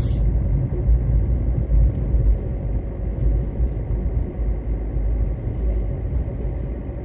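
Low, steady rumble of a car.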